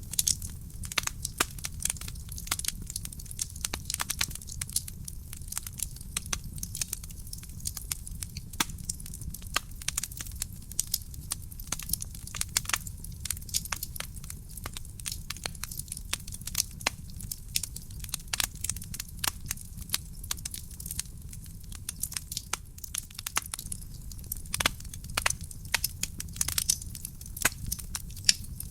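Wood fire crackling and popping in a fireplace: frequent irregular sharp snaps over a steady low rumble of burning.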